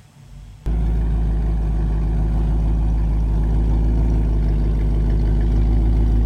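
A truck engine idling steadily and loudly close by, with a deep even tone. It cuts in abruptly about a second in.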